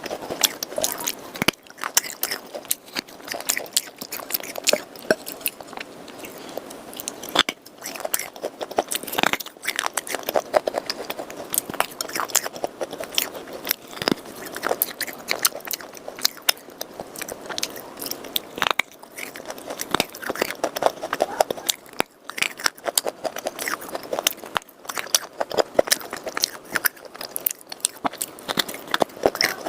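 Close-miked crunching and chewing as lumps of dry red clay and chalk are bitten and chewed, a dense, irregular crackle of small cracks with no pauses of note.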